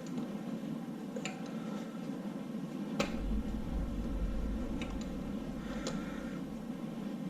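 A few sharp metallic clicks from tools and parts being worked on an LS V8 engine during teardown, the loudest about three seconds in, with a deep low rumble from then until near the end.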